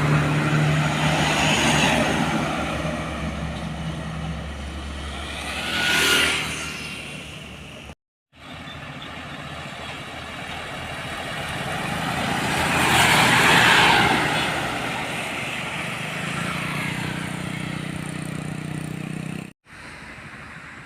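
Heavy road vehicles, most likely diesel trucks, passing by. A low engine drone is followed by one vehicle going past about six seconds in. After an abrupt cut, a longer pass-by swells to its loudest about two-thirds of the way through, then fades to a steady engine hum before another abrupt cut.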